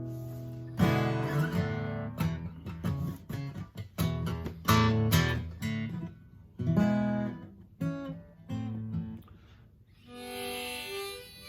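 Acoustic guitar: a chord rings out and fades, then loose strums and single picked notes follow at irregular intervals.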